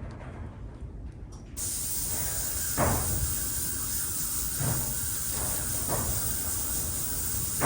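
A steady hiss starts about a second and a half in and cuts off near the end, with a few light knocks over it.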